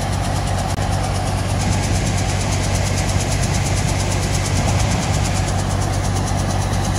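Diesel engine of farm harvest machinery running steadily with a low, even hum.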